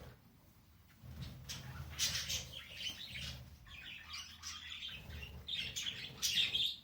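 Budgies chattering with quick, high chirps, starting about a second in and loudest near the end.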